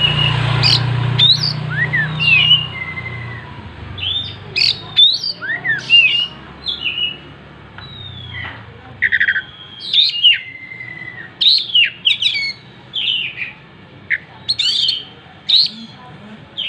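Oriental magpie-robin singing a continuous, varied song of short whistled phrases, with notes sweeping up and down in pitch.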